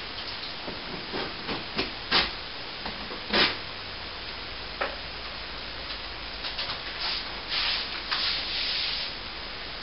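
Hand tool scraping and rubbing on a plaster wall during crack repair: several short scrapes in the first few seconds, then a longer scrape near the end.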